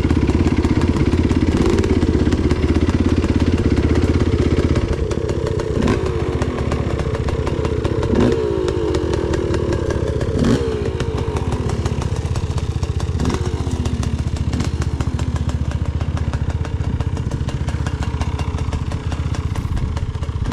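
Enduro motorcycle engine running with the revs rising and falling, and a few sharp knocks along the way. It gets somewhat quieter about five seconds in.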